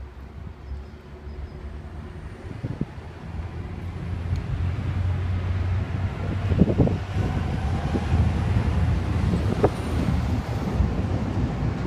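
Regional multiple-unit train rolling slowly through the station: a low rumble of engine and wheels that grows louder, with a few clacks as the wheels cross rail joints.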